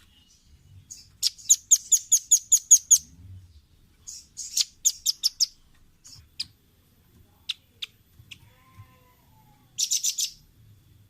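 Velvet-fronted nuthatch calling: quick runs of sharp, high chip notes. One run of about a dozen notes comes about a second in, a shorter run follows, then a few spaced single notes and a last short burst near the end.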